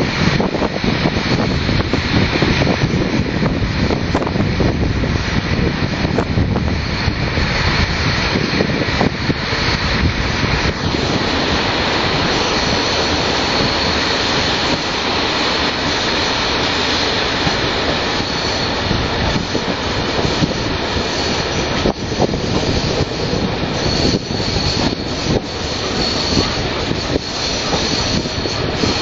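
Steam train rolling along the track, a steady loud rumble and rattle of wheels on rails, with a faint high squeal from the wheels at times.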